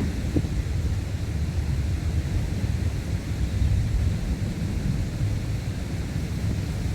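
Wind buffeting the microphone: a low, fluctuating rumble with a fainter hiss above it.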